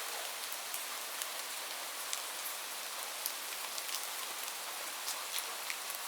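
Steady rain: an even hiss of falling rain with individual drops ticking sharply here and there throughout.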